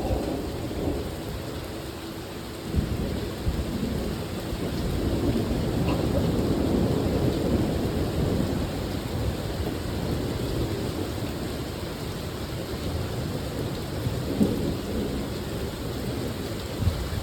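Thunder rolling over steady heavy rain: a low rumble that swells a few seconds in and slowly dies away, with the rain hissing throughout.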